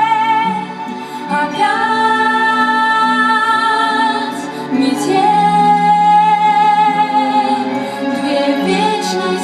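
A woman singing a slow song with long held notes over an instrumental backing track.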